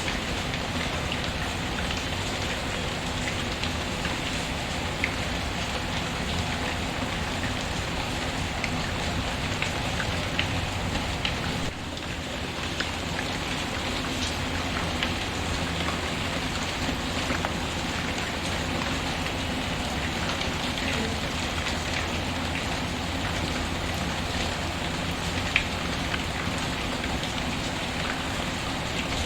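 Steady rain falling, mixed with the occasional small crackle of a wood fire; the level dips briefly about twelve seconds in.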